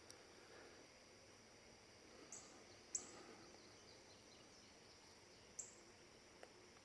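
Near silence: faint room tone, with three brief, faint high-pitched chirps about two, three and five and a half seconds in.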